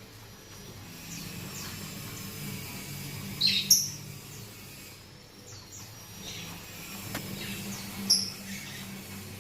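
Small pet parrots chirping: short, sharp high calls, the two loudest about a third of the way in and near the end, with fainter chirps between, over a steady low hum.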